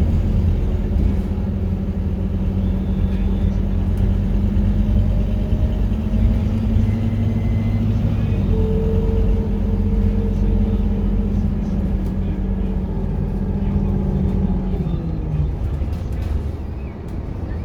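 Scania K230UB bus's diesel engine running under way: a steady drone over a low rumble. The drone stops about fifteen seconds in, leaving the lower rumble.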